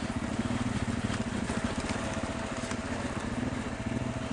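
Motorcycle engine running steadily at low revs with an even, fast low pulse, and a few sharp clicks over it, as the bike rolls down a loose-rock trail.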